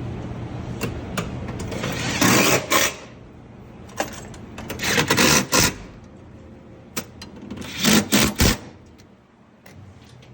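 A power tool run in three short bursts, each about half a second to a second long, over a steady low hum that fades after the first few seconds.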